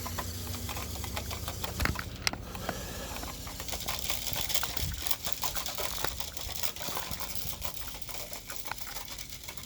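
Toy remote-control car (Skids Drifter) running, its small electric drive motors and plastic gearing whirring, with a steady stream of small clicks and rattles from the wheels and chassis as it drives. A low hum fades out about two seconds in.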